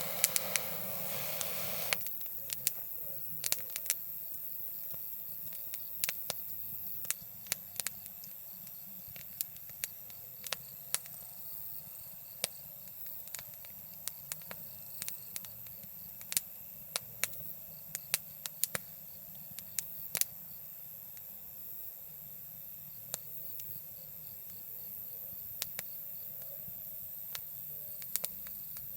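Wood campfire crackling, with sharp irregular pops and snaps over a steady hiss; a fuller rushing sound in the first two seconds drops away.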